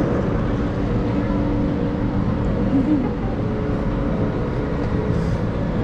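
Steady low rumble of a busy indoor public hall, with a faint murmur of distant voices.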